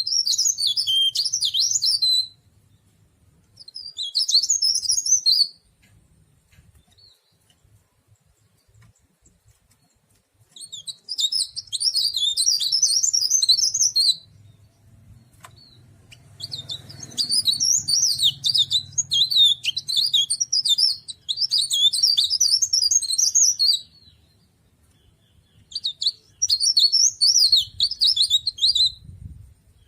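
Cikrak daun, a leaf warbler, singing in rapid, high twittering phrases of two to seven seconds each, with short pauses between them, about five phrases in all.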